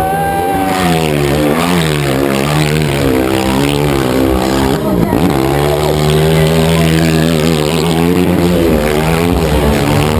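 Motorcycle engine revving up and down repeatedly during a stunt, its pitch dropping sharply and climbing again about five seconds in.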